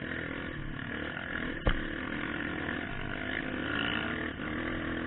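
Trail motorcycle engine running steadily while riding, with one sharp knock about a second and a half in.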